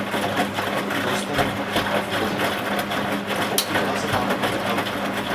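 Zanussi Z913 washing machine running its wash cycle: a steady motor hum with the drum turning and many irregular soft knocks and clicks.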